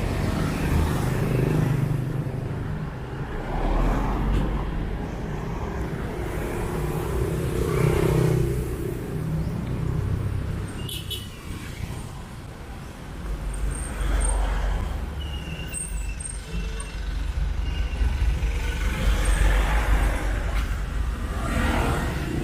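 Road traffic on a narrow street: cars and other vehicles going by one after another with a steady engine rumble, swelling as each one passes, and a few brief high squeaks.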